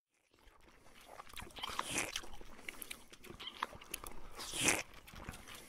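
Irregular crunching and chewing sounds, like someone biting into crisp food, with a louder crunch about four and a half seconds in.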